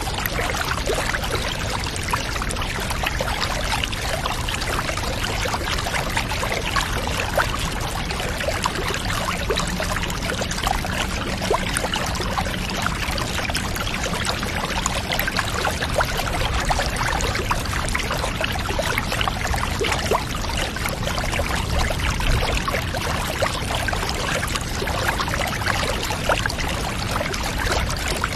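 Steady running, trickling water, unchanging throughout, with many small ticks scattered through it.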